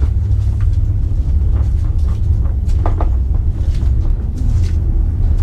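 Low, steady rumble of a passenger train carriage rolling slowly out of a station, heard from inside the compartment, with a few faint knocks.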